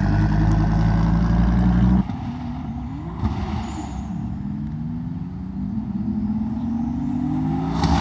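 A Dodge Viper's V10 engine runs loud and steady close by for about two seconds, then cuts off abruptly. The engines of a Toyota Supra and a Chevrolet Camaro follow, accelerating hard in a roll race further off, their pitch climbing through the gears toward the end.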